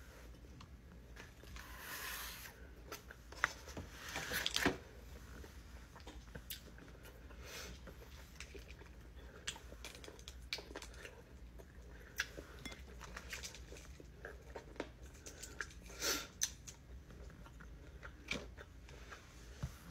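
Person chewing and biting fried, breaded chicken gizzards: irregular crunchy mouth sounds and small clicks, with a few louder bursts about two seconds in, around four and a half seconds, and near sixteen seconds.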